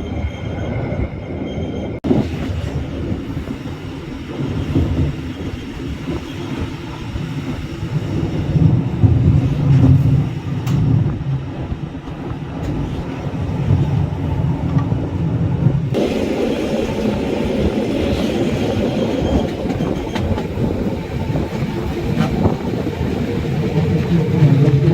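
Bernina Express train running on the rails: a steady rumble with clattering wheels. The sound changes abruptly twice, about two seconds in and again past the middle.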